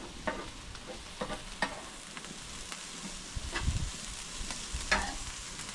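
Food sizzling in a pan on a gas barbecue, with a utensil clicking against the pan every second or so as it is stirred.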